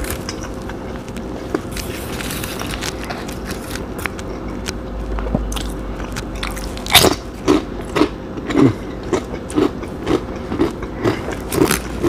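Close-up mouth sounds of chewing a mouthful of sandwich. About seven seconds in, loud crunching of a nacho cheese tortilla chip begins, about two crunches a second.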